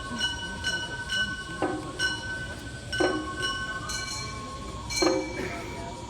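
Gion bayashi festival music: a bamboo transverse flute holds long high notes over small bronze hand gongs (kane) clanging several times a second, with a heavier stroke about every one and a half to two seconds.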